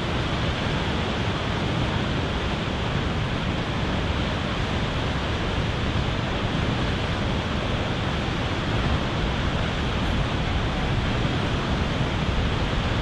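Steady, unbroken rush of Månafossen, a waterfall with 92 metres of free-falling water, crashing into the pool at its base.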